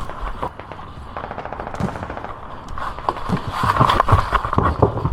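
Airsoft electric guns (AEGs) firing full-auto bursts: a fast, even rattle about a second in, with scattered sharp knocks and thuds around it.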